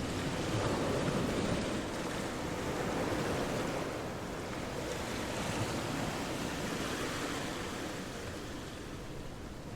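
Ocean surf washing ashore: a steady rush of breaking waves that swells about a second in and again around three seconds, then slowly eases off.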